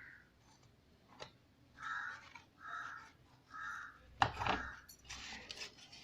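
A bird cawing three times, about a second apart, followed by a sharp knock and rustling as cardboard pieces are handled and pressed together.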